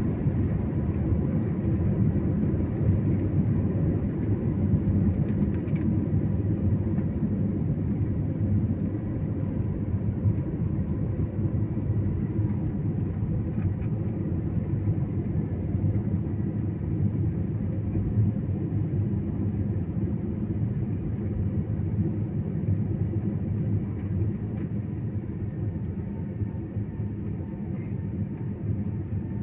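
Steady in-flight airliner cabin noise: a constant low rumble of engines and rushing air, heard from inside the cabin, easing off slightly near the end.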